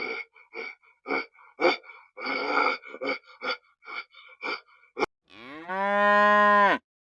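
A cow mooing once near the end: one long call that rises in pitch and then holds steady. Before it comes a run of about a dozen short, irregular sounds and a sharp click.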